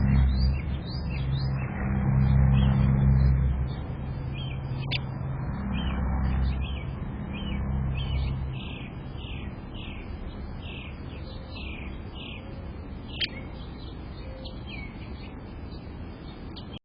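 Backyard birds chirping in quick, repeated short notes, with a low rumble that fades out about eight seconds in and a sharp click about thirteen seconds in.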